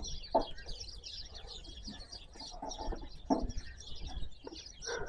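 Many small birds chirping continuously in the background, with a few brief knocks from work nearby.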